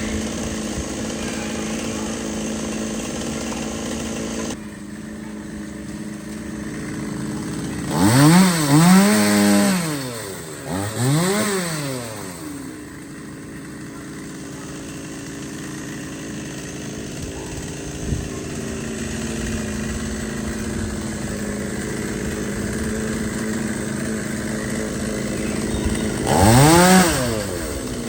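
Chainsaw engine idling steadily and revved up and back down in short bursts, several times about a third of the way in and once more near the end.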